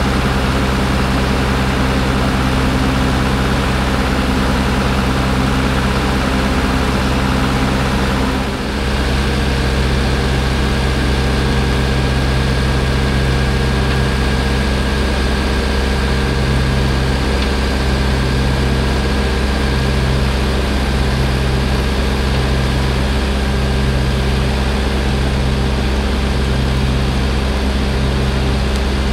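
Heavy diesel engine running steadily at a low, even speed. About eight seconds in, the sound dips for a moment, then goes on with a slightly changed tone.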